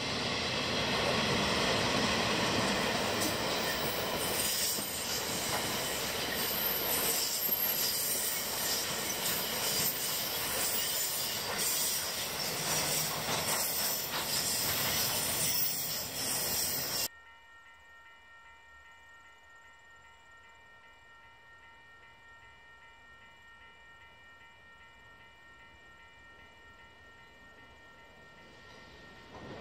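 A diesel-hauled coal train passes close by: the locomotive, then a long line of loaded coal wagons, with wheels clacking over the rail joints and a high wheel squeal. About two-thirds of the way through the sound cuts off suddenly to a faint, steady whine with a few held tones, which starts to grow louder near the end as the train approaches again from a distance.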